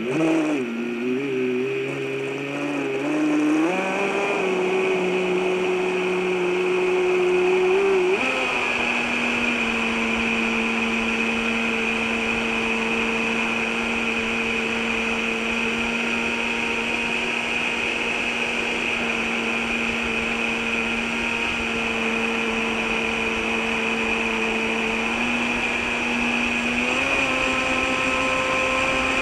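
Traxxas Spartan RC boat's brushless electric motor running with a steady whine. Its pitch shifts with the throttle, stepping up about eight seconds in and again near the end.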